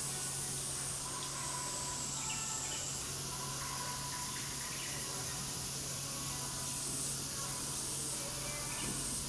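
Steady high-pitched buzzing of summer insects, with a few short faint bird chirps and a low steady hum beneath.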